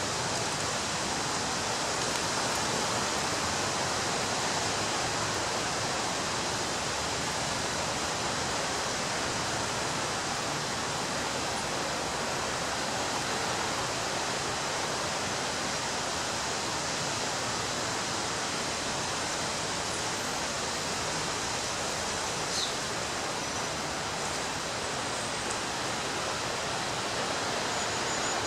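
Surf from waves breaking on a beach, heard as a steady, even roar of rushing water with no separate swells standing out.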